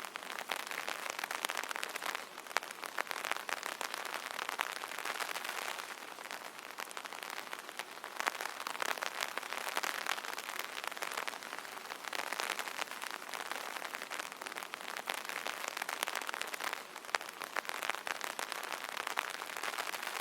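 Rain pattering on an umbrella: a dense, steady crackle of drops on the taut canopy, swelling and easing every few seconds.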